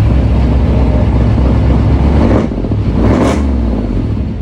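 A 383 stroker small-block V8 running through a GMMG cat-back exhaust, heard from the tailpipes. It rumbles deeply at idle and is revved up twice in short blips, about two and a half and three seconds in.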